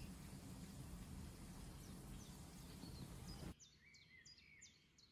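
Faint birds chirping over a low steady hum. About three and a half seconds in, the hum drops away, leaving a quick run of short high chirps.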